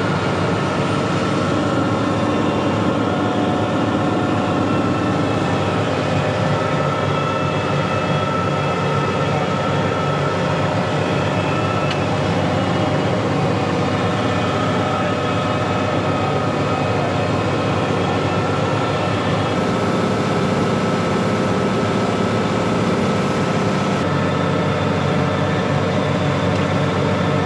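Tractor engine running steadily, a constant mechanical drone with several steady whining tones over it.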